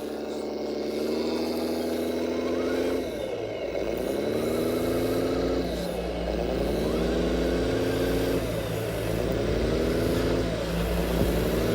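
Truck engine sound accelerating through the gears: the engine note climbs, then drops back and climbs again at each gear change, about four times.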